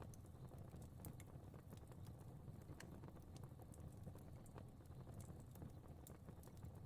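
Fire crackling softly: irregular small snaps and pops, several a second, over a low steady rumble of flame.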